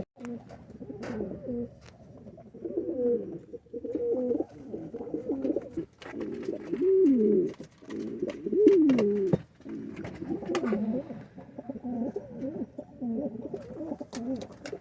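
Several racing homing pigeons cooing, with low, swooping coos repeating and overlapping, and a few faint clicks among them.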